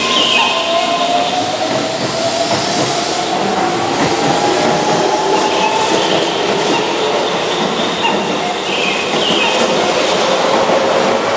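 Keihan 13000-series electric train running, with wheel and rail noise and a motor whine that slowly rises in pitch as it gathers speed.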